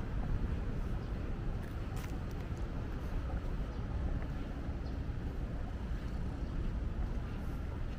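City street background: a steady low rumble of road traffic, with wind buffeting the microphone, and a brief click about two seconds in.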